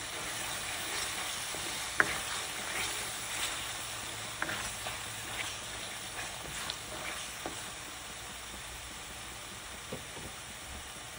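Thick onion-tomato masala sizzling in a metal kadhai, fried until the oil separates, while a spatula stirs and scrapes through it. A few sharp knocks of the spatula against the pan stand out, the loudest about two seconds in.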